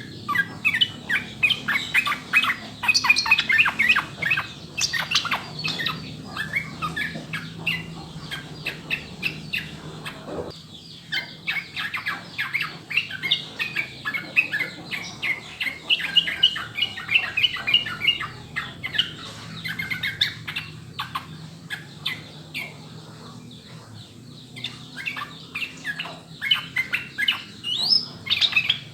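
Yellow-vented bulbul (trucukan) singing a long, fast run of bubbly chattering notes. The song pauses briefly about a third of the way in and thins out for a few seconds later on, before picking up again.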